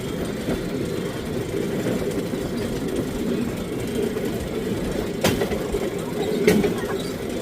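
Pedal-powered rail bike's steel wheels rolling along the rails with a steady rumble, and two sharp clicks about a second apart near the end.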